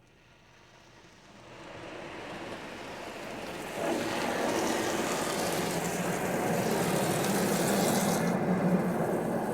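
Automatic car wash spray of water and wax hitting the car, heard from inside the cabin: it builds up out of quiet and grows much louder about four seconds in, a steady spraying hiss.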